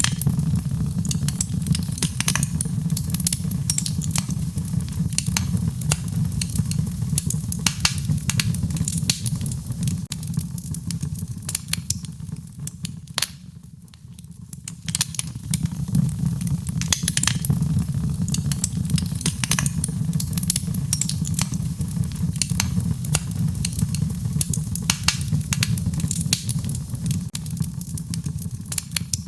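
Fire crackling in a fireplace: many sharp pops and crackles over a steady low rumble of the flames. The rumble and crackling die down briefly about halfway through, then pick up again.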